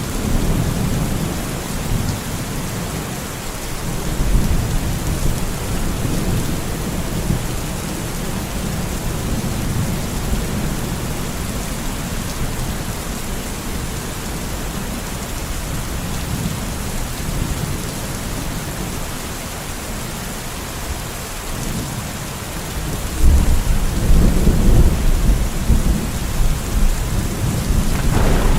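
Steady rain falling, with low rumbles of thunder underneath. About three-quarters of the way through, a louder roll of thunder builds and carries on to the end.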